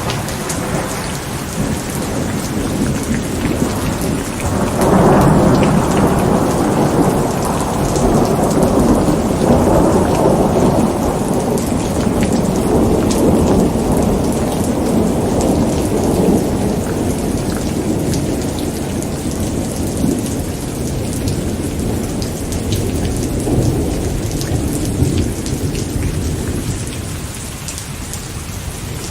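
Steady rain falling, with fine patter of drops throughout. A deep rolling rumble of thunder builds about five seconds in and slowly fades away.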